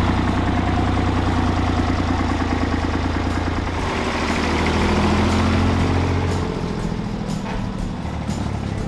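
Porsche P133 tractor's 2.5-litre air-cooled three-cylinder diesel engine running with a steady low rumble and rapid firing pulses. The low rumble drops away about six and a half seconds in.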